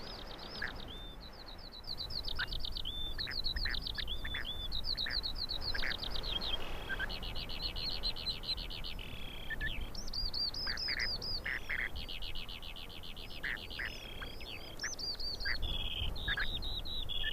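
Spoon-billed sandpipers calling: series after series of rapid, high chirping notes, each run lasting about a second, over a low background rumble.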